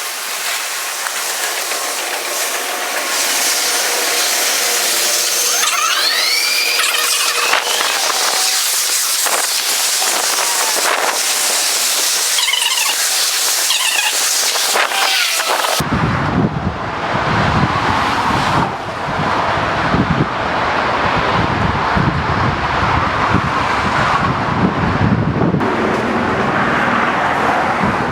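BART train running on its rails, with a high rushing noise and brief wheel squeals that glide in pitch, about six seconds in and again around twelve to fourteen seconds. About sixteen seconds in the sound cuts abruptly to a deeper, steady rumbling ride noise.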